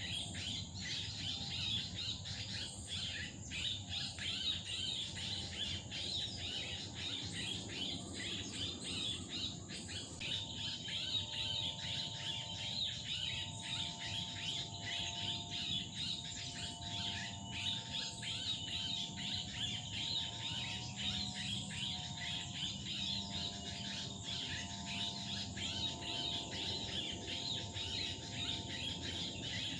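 Dense, continuous chirping of many small birds, over a steady high insect drone.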